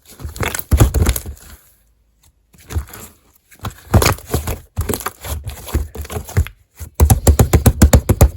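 Slime being squished and poked by hand, making wet crackling pops in clusters with short pauses. Near the end it turns into a fast run of about ten pops a second.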